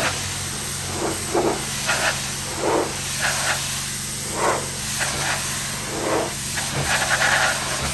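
Engine running steadily under a hiss, with short, irregular bursts of noise over it.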